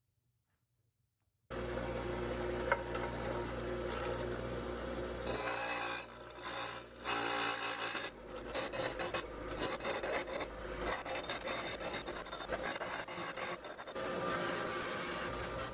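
Metalworking on steel tube during cutting and welding: a dense, uneven noise over a steady low hum. It starts suddenly about a second and a half in, after silence, and dips briefly around six to seven seconds in.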